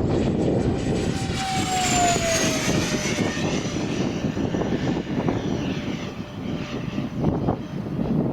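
Radio-controlled Freewing Me-262 model jet's twin electric ducted fans whining past, the pitch dropping as it goes by about two seconds in, over heavy wind noise on the microphone.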